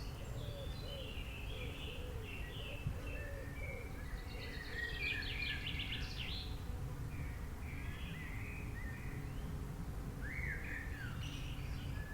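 Several birds chirping and singing, with a fast trill about four to six seconds in and lower short calls in the first few seconds, over a steady low background rumble.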